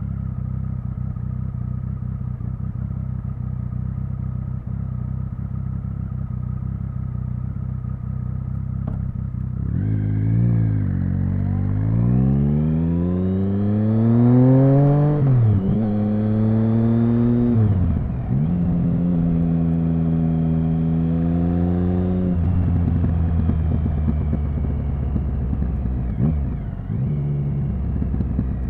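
Triumph Speed Triple 1050's inline three-cylinder engine idling steadily, then about ten seconds in pulling away hard. It revs up through the gears, its pitch climbing and dropping sharply at each of about three shifts, holds a steady cruise, then eases off the throttle.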